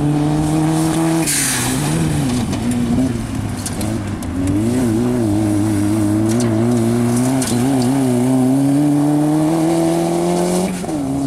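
Maruti Gypsy rally car's engine revving hard on a dirt course, with a short rush of noise about a second in. Its pitch wavers, climbs steadily and drops sharply near the end at a gear change.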